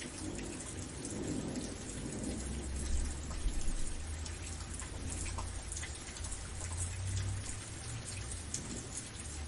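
Steady rain hissing, with fine drop ticks, and a low rumble of thunder rolling underneath that swells about a second in and is loudest around three to four seconds in.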